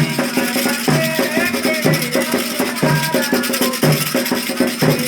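Candomblé ritual music for Xangô: rattles shaken in a steady rhythm over low drumbeats, with snatches of voices singing.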